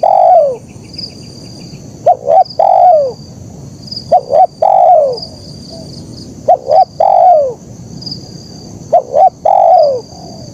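Spotted dove (terkukur) cooing: about five repeats of its phrase, each two short coos and then a longer coo that falls in pitch, every two seconds or so. A smaller bird chirps faintly and high-pitched in the background.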